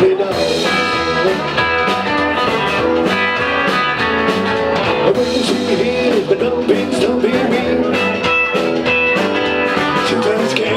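Rockabilly band music with guitar to the fore.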